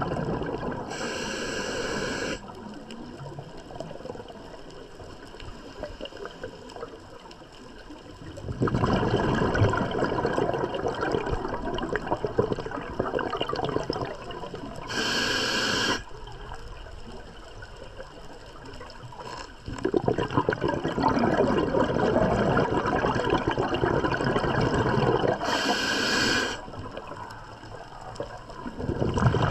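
A scuba diver's breathing heard underwater through a demand regulator: three short hissing inhalations, and two long stretches of bubbling exhaust as the diver breathes out, roughly one breath every ten seconds.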